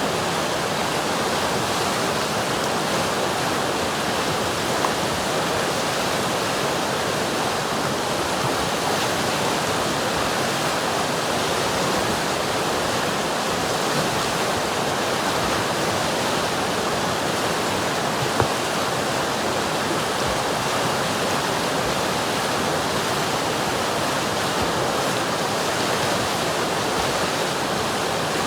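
River water rushing and burbling steadily over rocks, a constant even hiss of flowing water.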